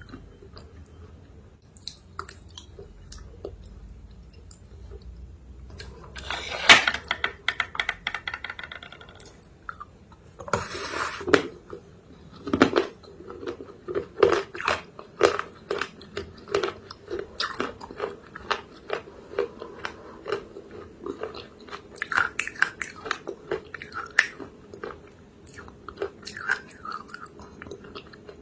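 Mouth biting into crunchy chalk paste: a sharp crunch about seven seconds in with crackling after it, another crunch a few seconds later, then steady chewing, about one to two chews a second.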